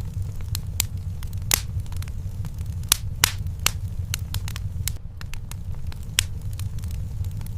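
Wood fire burning in a fireplace: irregular sharp crackles and pops, a few louder snaps among them, over a steady low rumble of the flames.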